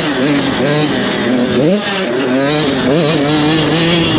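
Motocross dirt bike engines at racing throttle, their pitch rising and falling as the throttle is worked. There is a sharp drop and quick climb in revs about two seconds in.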